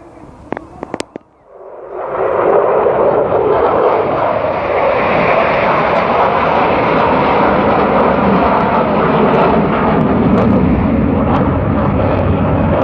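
F-16 fighter jet's engine roar as it flies in fast: the noise swells about two seconds in and stays loud from then on. A few sharp clicks come before it.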